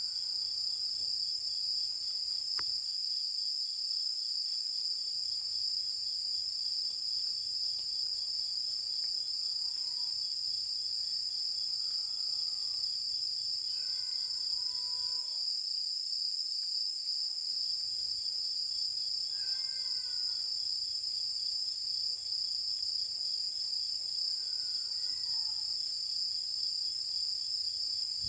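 A chorus of night insects singing steadily: a dense, continuous high ringing. A few faint, short falling calls come through underneath it now and then.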